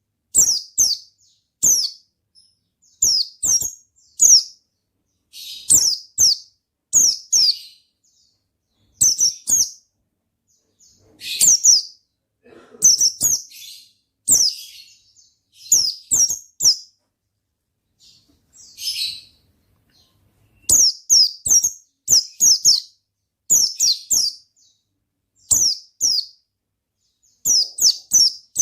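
Pleci (white-eye) singing: short, high, downslurred chirps in quick groups of two or three, repeated about once a second, with a short break past the middle.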